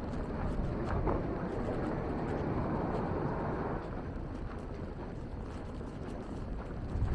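Steady outdoor street noise on a snowy city street. A vehicle swells up and fades about three seconds in, with faint footsteps about once a second.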